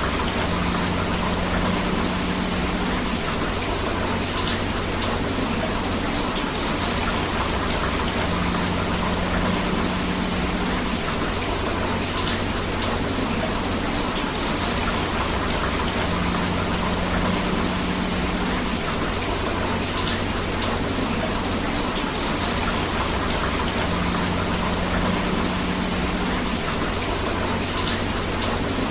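Steady rain with rushing river water: an even, unbroken hiss of falling drops and flowing water.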